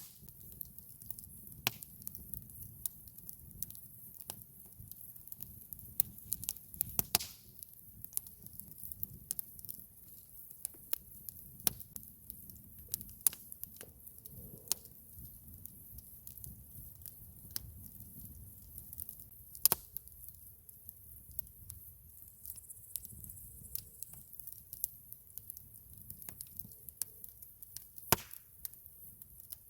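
Campfire of burning wood crackling: irregular sharp pops and snaps over a low steady rumble of the flames, with a few louder snaps, one about seven seconds in, one near the twenty-second mark and one near the end.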